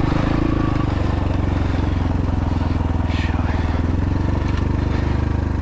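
X-Pro Templar X 250 dirt bike's single-cylinder four-stroke engine running steadily at low revs, its firing pulses even and its pitch holding level.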